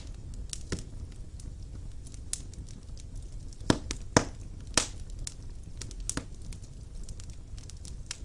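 Fire burning in a stone fireplace: a low, steady rumble under frequent sharp crackles and pops, with three louder pops in quick succession about halfway through.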